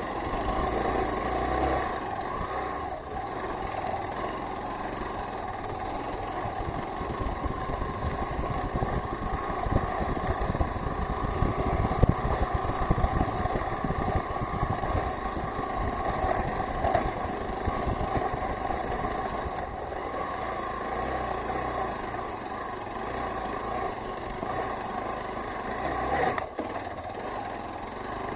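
Hero Xpulse 200 4V motorcycle's single-cylinder engine running steadily while riding.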